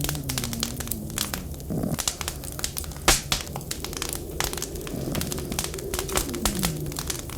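Wood fire crackling with frequent sharp pops and one louder pop about three seconds in, over a low, wavering whistle of wind.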